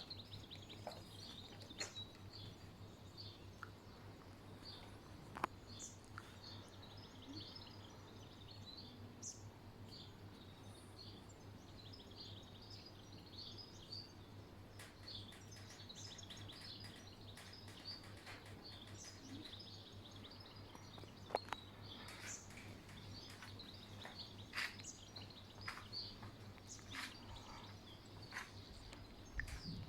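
Faint birds chirping, with many short, high chirps, over a steady low hum and a few sharp clicks.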